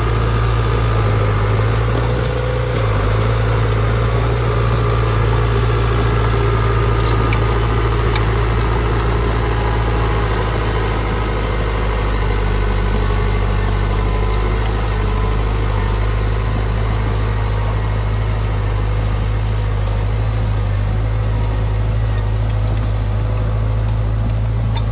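An engine idling steadily, with a deep, even hum and a brief change in its low note a couple of seconds in.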